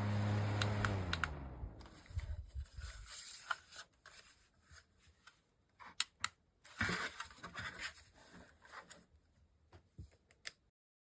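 Small USB desk fan running, its motor hum and airflow loud on the microphone. A click about a second in is followed by the hum falling in pitch and fading as the fan winds down. Scattered clicks and rustling handling noises follow.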